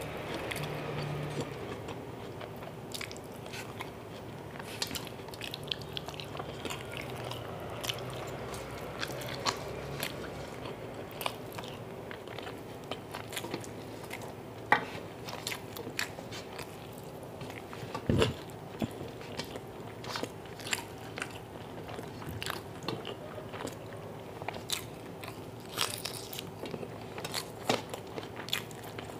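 Close-up eating sounds of chicken curry eaten by hand: chewing and biting with crunching and many small sharp clicks as meat is pulled from the bone, over a faint steady hum. One louder knock comes about two-thirds of the way through.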